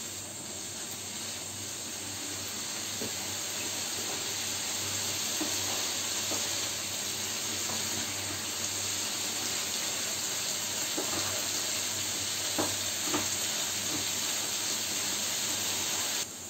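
Boiled vegetables sizzling and hissing in a frying pan over a raised gas flame as the water clinging to them cooks off, steady and growing a little louder over the first few seconds. A few light knocks of a wooden spatula stirring in the pan, and the sizzle stops abruptly near the end.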